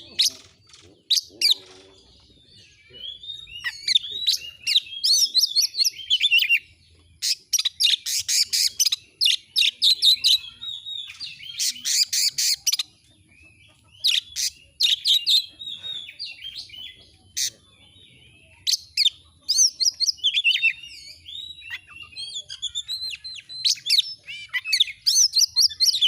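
Oriental magpie-robin (kacer) singing energetically: a varied song of whistled, gliding notes broken by fast, rattling chatter, in bursts with short pauses between phrases.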